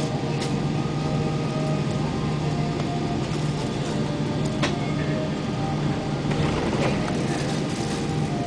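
Steady cabin noise inside a Boeing 777-200 airliner after landing: a constant low hum with faint higher tones, muffled by a covered phone microphone, with a couple of faint clicks.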